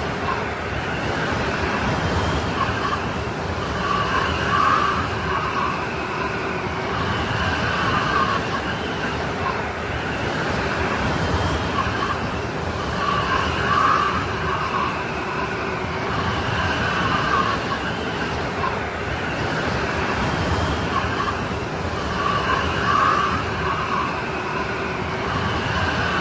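Strong snowstorm wind blowing as a steady rush, with wavering whistling tones that swell and fade every few seconds.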